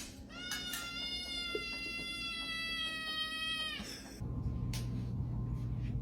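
A pet animal's single long, high-pitched cry, held steady for about three and a half seconds and dipping slightly at the end. Low background music comes in about four seconds in.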